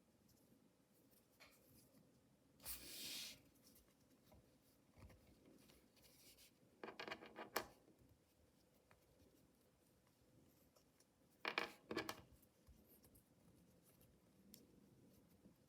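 Packaging of a mystery toy being handled and opened, heard as three short bursts of rustling and crinkling with light clicks, separated by near silence.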